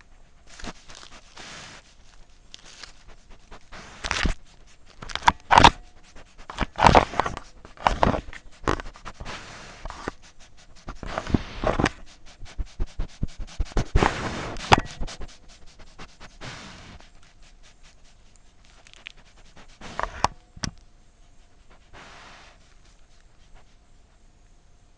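An animal sniffing and snuffling in irregular breathy bursts, with scraping and crackling. The bursts are loudest in the first half and thin out near the end.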